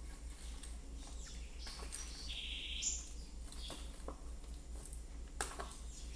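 Soft slime being handled, with scattered short sticky clicks and pops. A chirp-like call about two and a half seconds in jumps up in pitch near its end.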